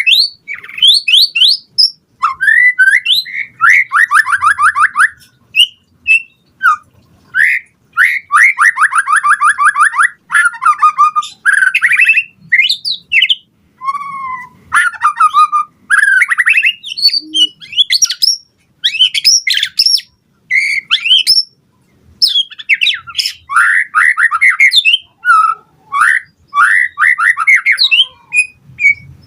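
White-rumped shama (murai batu) singing a loud, varied song: rapid trills, whistled notes and chattering phrases follow one another in quick bursts with short pauses between them.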